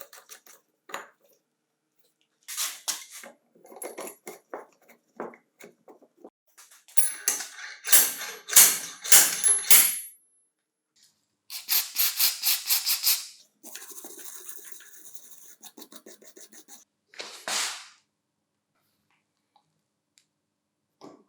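Rapid back-and-forth rubbing strokes in several runs with pauses between them. The longest runs last about two seconds, and a thin high squeak runs through one of them near the middle.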